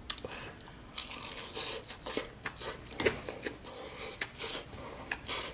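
A person chewing a mouthful of Shake & Bake-coated baked chicken close to the microphone: irregular crisp crunches and crackles from the breaded coating.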